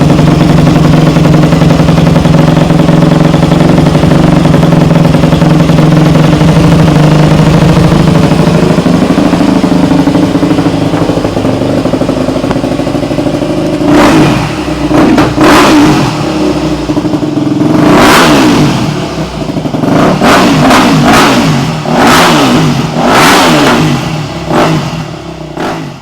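Loud 2007 Yamaha YZ250F four-stroke single-cylinder engine running through a Lexx slip-on exhaust: a steady idle for about half the time, then a series of quick throttle blips, each rev rising and dropping back.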